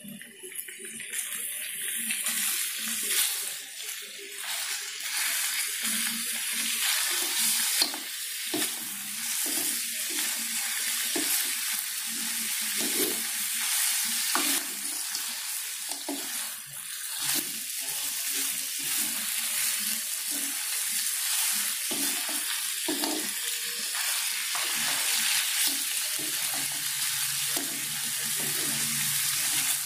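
Pieces of rabbit meat and chilli sizzling in a hot wok, stirred and scraped round the pan with a wooden spatula. The sizzle swells in the first couple of seconds and then keeps up steadily under the uneven scrape of the stirring.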